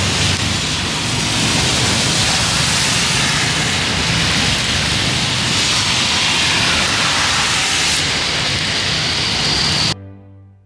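Heavy rain pouring down, a dense steady rush that cuts off suddenly about ten seconds in.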